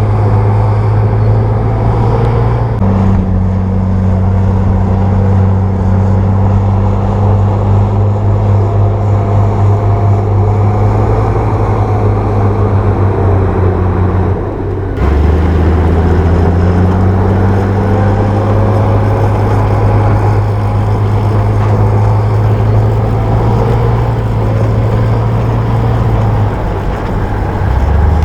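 Bulldozer's diesel engine running under load with a loud, steady low drone. Its pitch shifts a few times as the revs change.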